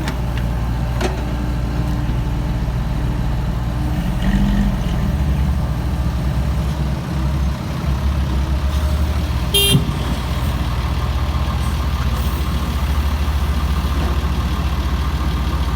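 Komatsu PC70-8 excavator's diesel engine running steadily as the machine works, growing louder and deeper about five seconds in. A short, sharp, high-pitched sound cuts through once, just under ten seconds in.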